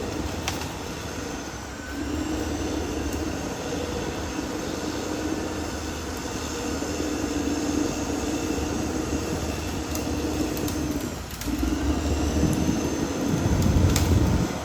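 Caterpillar D6R XL crawler bulldozer working, its diesel engine and steel tracks running steadily. The sound dips briefly about eleven seconds in, and the engine's low rumble grows louder near the end.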